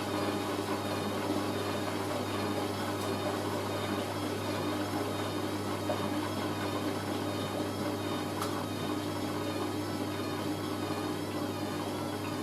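Hoover A3060 washing machine's motor driving the drum through a spin, with a steady low hum and a whine that wavers up and down about once a second.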